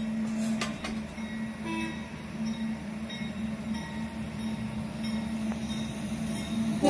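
Steady low rumble and hum of a train out of sight, with a few faint clicks in the first second. It is heard through a railroad webcam's audio played from a screen.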